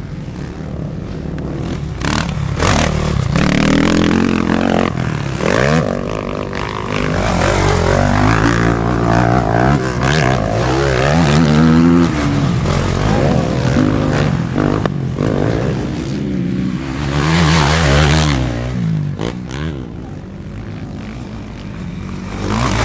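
Motocross motorcycles racing, several engines revving up and down at once as the riders accelerate and shift, with a louder surge about three-quarters of the way through.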